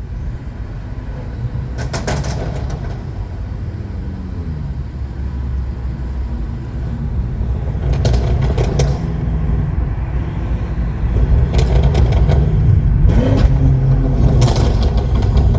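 BMW F10 M5 Competition's twin-turbo V8 pulling hard, its note rising and falling through the revs and getting louder in the second half, with several short sharp exhaust cracks.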